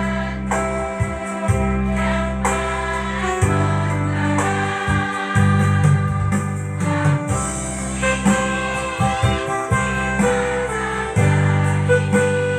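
Women's choir singing with instrumental accompaniment and a heavy, steady bass line.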